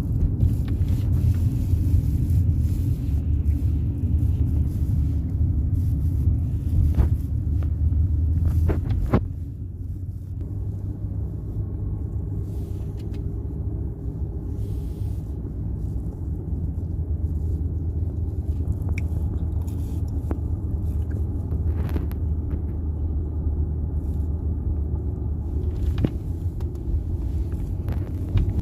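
Steady low rumble of a car on the move, its level dropping slightly about nine seconds in, with a few brief clicks.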